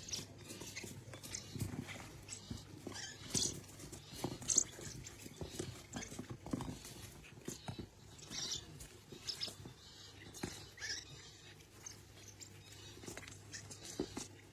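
A pet parrot making short, scattered high chirps and small clicking or nibbling sounds, over a faint steady hum.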